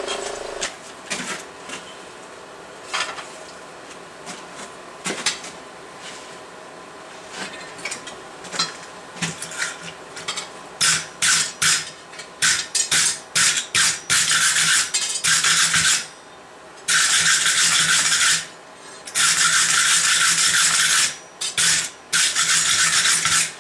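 Hand filing or scraping on steel: light scattered taps and scrapes at first, then about halfway through a run of long, hard strokes, each about a second, with short pauses between them.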